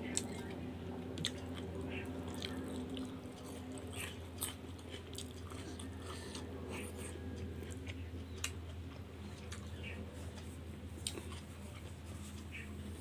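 A person chewing mouthfuls of rice and curry eaten by hand, close to the microphone: irregular wet smacks and clicks of the mouth. A steady low hum runs underneath.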